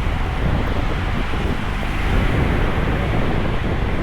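Steady wind rush buffeting the microphone of a camera riding on a moving bicycle in heavy rain, strongest and most rumbling in the low end.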